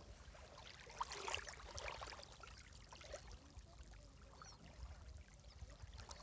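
Shallow sea water lapping and trickling, with soft little splashes and gurgles, a little louder about a second in.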